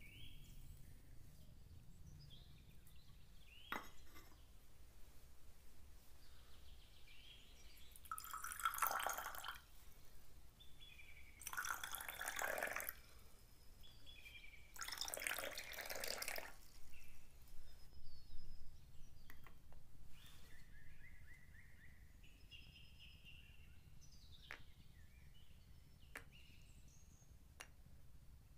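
Water poured from a small glass into a miniature metal pot, in three splashy pours of a second or two each, followed by a few light clinks of glass and metal.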